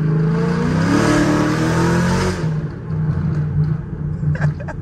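Chevrolet Camaro 1LE's engine accelerating hard, its note climbing steadily for about two and a half seconds, then dropping at a gear change and running on at a lower, steadier pitch.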